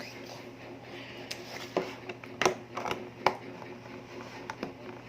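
Scattered light clicks and taps, several of them at irregular intervals, over a steady low electrical hum in a small room.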